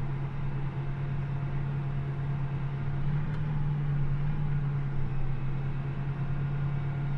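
John Deere 8400R tractor's diesel engine running under way, a steady even drone.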